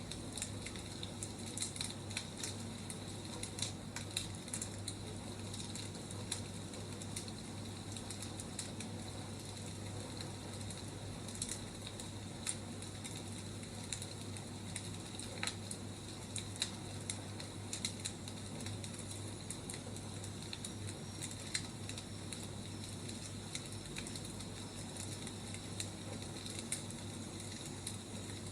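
Firewood burning in a fire, a steady hiss with irregular sharp crackles and pops.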